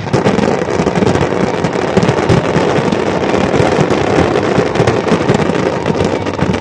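Fireworks going off in a dense, continuous barrage of rapid pops and crackle that starts abruptly and keeps up without a break.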